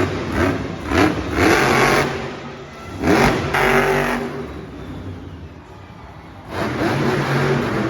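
Monster truck engine revving hard in repeated bursts, its pitch sweeping up with each one. It drops back around the middle and comes in strong and steady again near the end.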